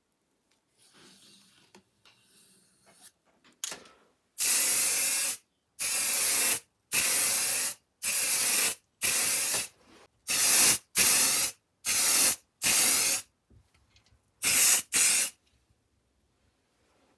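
Aerosol spray-paint can spraying in about eleven short bursts of hiss, each half a second to a second long with brief pauses between, as paint is applied to the iron's metal parts.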